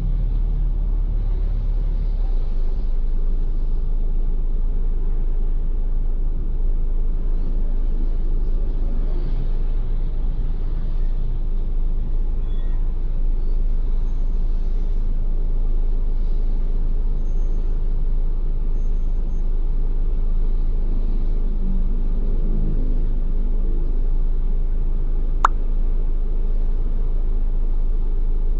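Steady low rumble of a Ford Everest SUV being driven, with one sharp click about 25 seconds in.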